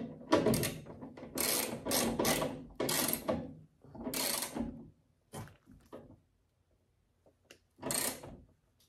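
Ratchet wrench clicking in several runs as a bolt is tightened, then a few short bursts.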